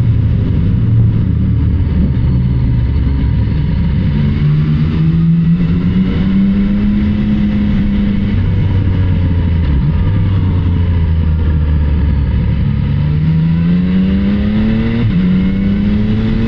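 Yamaha XSR900's three-cylinder engine pulling under load, its pitch rising as it accelerates, dropping at a gear change, then climbing again with another shift near the end, over low wind rumble.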